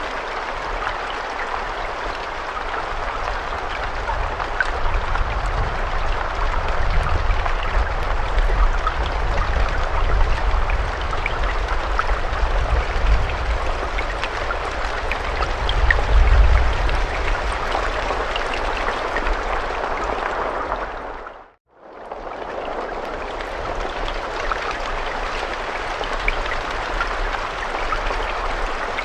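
Steady rain falling: a dense even hiss dotted with sharper drop ticks, with a low rumble underneath through the middle. About two-thirds of the way through, the rain fades out to silence for a moment and fades back in.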